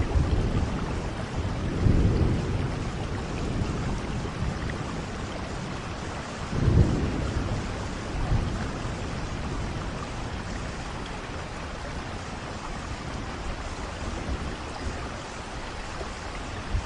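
Steady rushing noise like rain, with deep rumbles like thunder swelling about two, seven and eight seconds in, the one near seven seconds the loudest.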